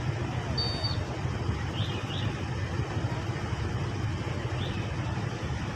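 Steady low rumble of vehicle noise, with a few faint, short high chirps over it.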